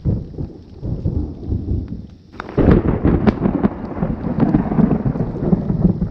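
Thunder rumbling, with a sudden loud clap about two and a half seconds in that rolls on; rain falling.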